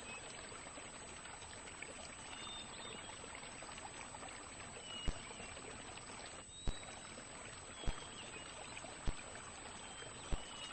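Quiet marsh ambience: a steady, even hiss like flowing water, with faint, short, high bird calls scattered through it. From about halfway in, five sharp clicks come at roughly even intervals.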